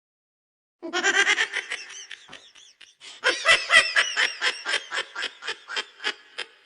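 Loud laughing in rapid "ha-ha-ha" pulses, starting about a second in after dead silence, tailing off, then coming back stronger about three seconds in.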